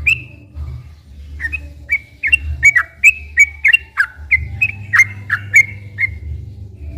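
Sooty-headed bulbul singing a long run of short, sharp whistled notes, several a second, some dropping in pitch, over a steady low hum.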